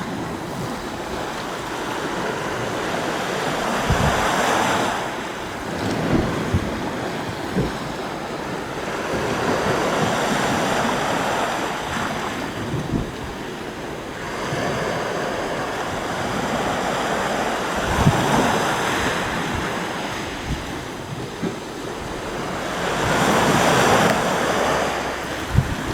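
Sea waves breaking and washing on the shore, the surf swelling and falling back every few seconds, loudest near the end. Wind buffets the microphone with short low thumps.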